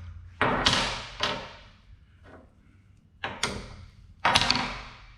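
A handful of sharp metal clanks and knocks, each ringing briefly, as steel pads and an old F-clamp are knocked and clamped into place on a steel frame.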